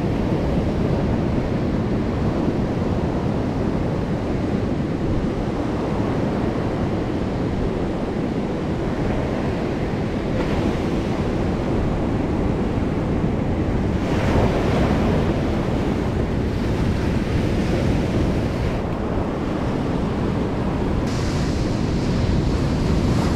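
Ocean surf breaking and washing in, mixed with wind buffeting the microphone. The wash swells a couple of times, about ten and fourteen seconds in.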